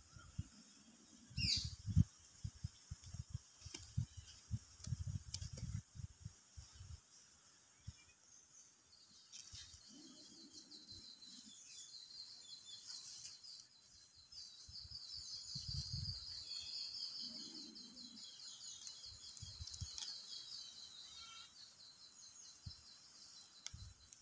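Birds chirping, with a dense run of rapid high calls from about nine seconds in until near the end. Irregular low thumps and rustles in the first several seconds.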